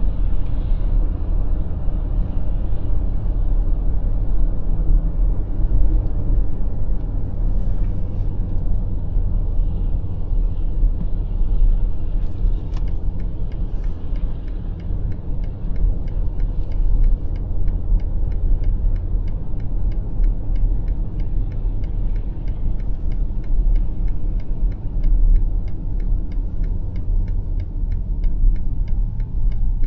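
Steady low road and drivetrain rumble inside the cabin of a BMW X5 M50i on the move. About halfway in, the turn-signal indicator starts ticking at an even rate.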